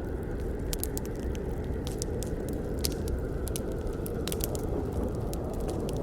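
Campfire burning, with irregular sharp crackles and pops over a steady low rumble of flames.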